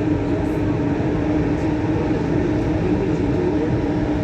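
Rubber-tyred Lyon Metro line B train running between stations, heard from inside the car: an even running noise with a steady hum underneath.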